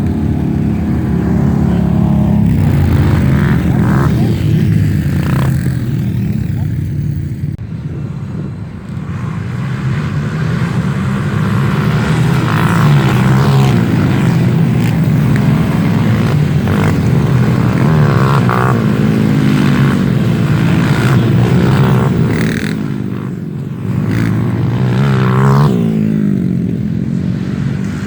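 Off-road trail motorcycle engines revving under load, the pitch rising and falling again and again as the throttle is worked, easing off briefly about a third of the way in and again near the end.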